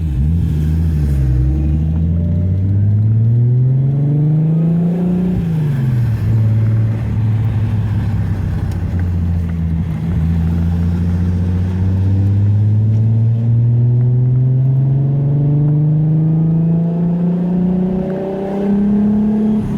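Nissan RB26DETT straight-six with a single turbo, under a light road load, pulling up through the revs for about four seconds. The revs then drop quickly as at an upshift and climb slowly and steadily again.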